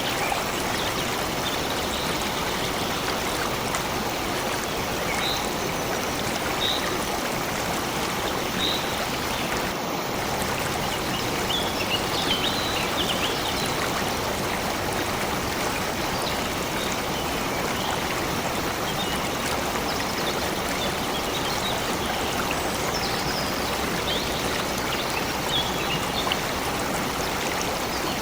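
A flowing stream of water running steadily, with short, high bird chirps now and then, including a cluster about 12 to 14 seconds in.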